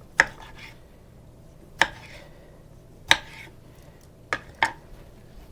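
Sharp clacks of kitchen items being handled and set down on a counter: five short knocks a second or so apart, the last two close together.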